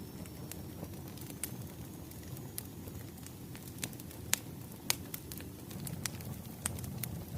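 Wood fire crackling: a low, steady rumble with sharp, irregular pops, two louder ones near the middle.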